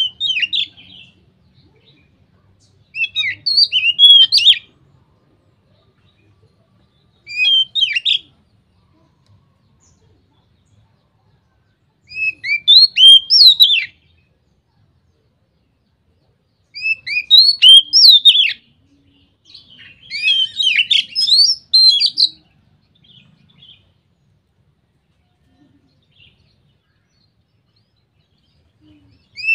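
Oriental magpie-robin (kacer) singing in loud, open full song ('ngeplong'): phrases of rich sweeping whistles and trills, each one to two seconds long, about six of them separated by pauses of a few seconds.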